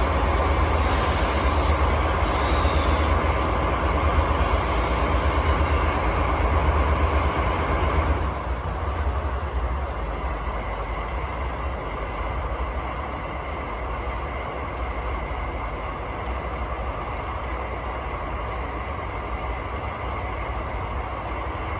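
DD51 diesel-hydraulic locomotive's twin V12 diesel engines running with the throttle notched up, with a hiss in the first few seconds. About eight seconds in, the sound drops to a quieter, steady running.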